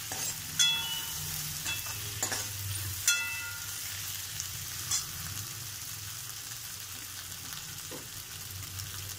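Food frying in hot oil, a steady sizzle that starts abruptly, with a few sharp metallic clinks of a utensil against the pan in the first few seconds.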